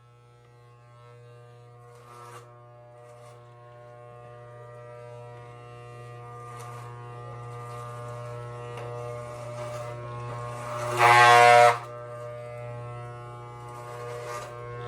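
Electric hair clippers buzzing steadily, slowly growing louder. A loud, harsher burst lasts under a second about eleven seconds in.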